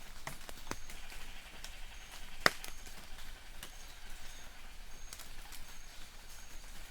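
Light rain falling in a forest, a steady hiss with scattered drops tapping on leaves; one sharp drop about two and a half seconds in is the loudest. Faint high chirps repeat every second or so.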